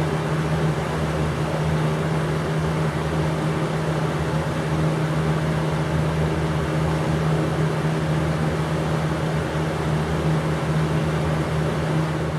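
Air King 9723C 20-inch box fan running: a steady low motor hum under an even rush of air from the blades.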